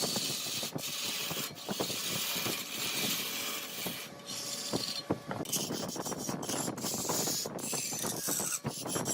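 Large wood lathe turning mahogany, a tool cutting into the spinning wood with a steady hiss and a dense crackle of scraping, broken by several brief drop-outs.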